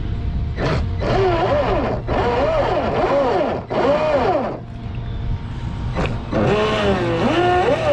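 Brushless electric motor of a Proboat Blackjack 42 RC catamaran, revved in several short throttle bursts, each a whine that rises and falls in pitch. The boat isn't moving because the flex shaft has failed: the motor spins but the propeller doesn't turn.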